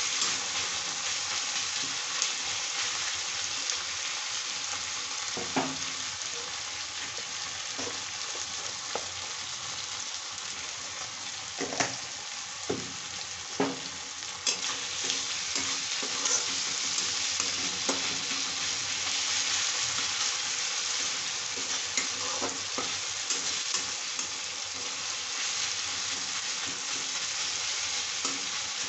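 Sliced onions and tomatoes sizzling steadily in hot oil in a wok, with a spatula scraping and clicking against the pan every so often as they are stirred.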